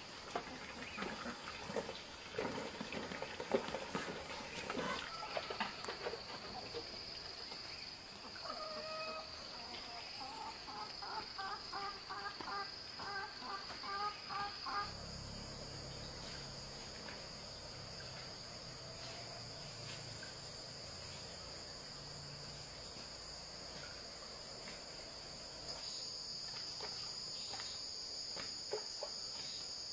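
Insects singing in a steady, high, continuous buzz, with a second pulsing insect song joining louder near the end. Scattered clicks and knocks come in the first several seconds, and a quick run of short repeated notes comes in the middle.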